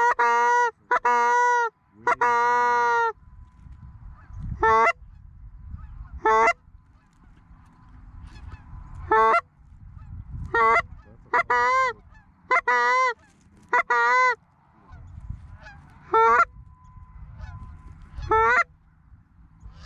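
Loud, close goose honks. A quick run of four comes at the start, the last one drawn out for about a second; after that, single or paired honks come every one to two seconds. A low rumble sits under the honks through the middle.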